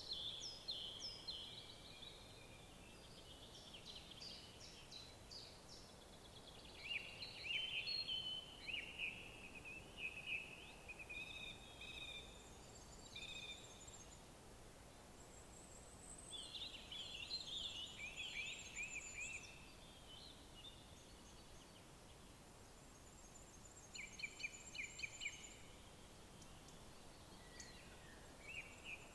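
Songbirds singing: bright, quick song phrases repeated every few seconds with short pauses between them, and a thin, very high trill from another bird at times. Behind them is a faint steady hiss.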